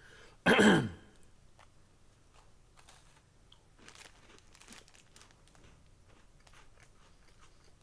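A brief loud sound with a falling pitch about half a second in, then faint scattered crinkles and crunches from handling and eating doppelkeks biscuits.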